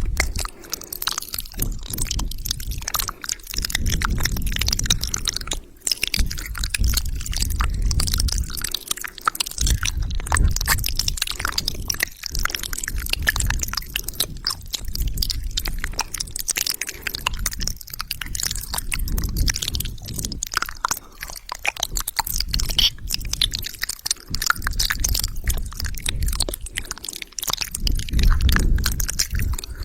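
Close-miked wet mouth sounds: a dense run of clicks, smacks and crackles, with low rumbles swelling in and out every few seconds.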